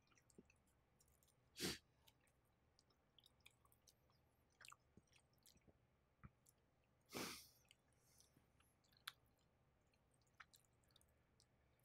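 Near silence broken by a few faint chewing and mouth sounds from a person eating, one about two seconds in and another around seven seconds, with a small tick shortly after.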